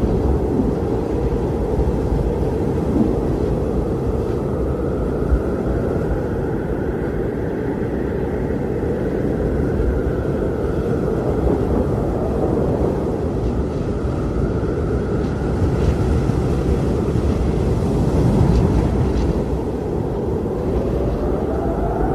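Strong wind blowing steadily with a deep rumble, over which a faint howl slowly rises and falls in pitch.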